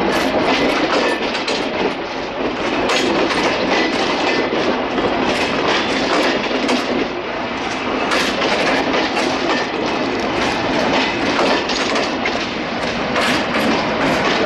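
Passenger coaches of a train rolling close past on the track, their wheels clacking over the rail joints in a steady rhythm over a continuous rumble and hiss.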